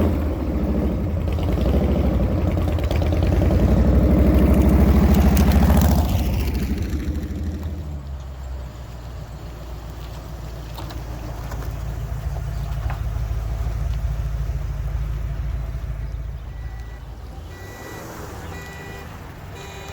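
Car engines of vehicles rolling slowly past: one loud exhaust swells as it passes close and drops away sharply about six seconds in, then a lower, steady engine rumble rises and fades.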